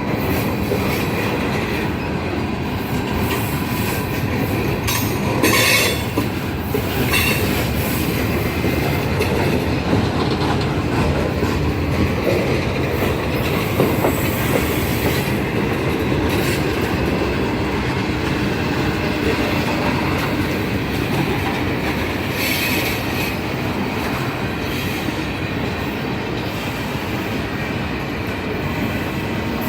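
Railroad cars rolling steadily past with continuous wheel-on-rail rumble and clatter. Brief high-pitched wheel squeals cut in about five to seven seconds in and again past the twenty-second mark.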